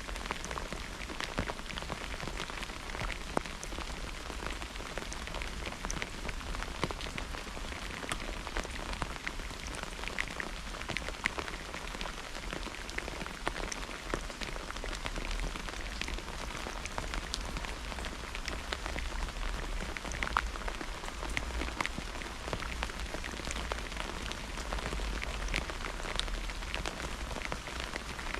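Steady rain during a thunderstorm, with many individual drops ticking sharply on a hard surface close by.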